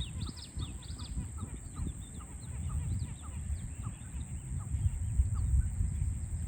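Birds chirping in quick, short falling notes, most densely in the first second, over a continuous low rumble of city noise.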